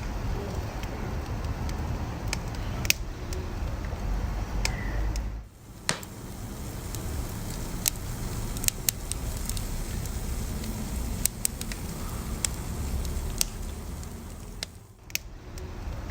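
Wood fire burning, with a steady low rumble and scattered sharp crackles and pops a second or more apart. The sound briefly drops away twice, about five seconds in and near the end.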